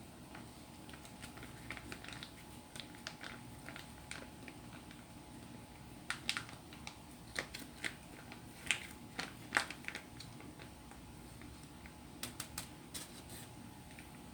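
Scattered light clicks and taps, with a few sharper ones in the second half, from food and utensils being handled on a table close to the microphone.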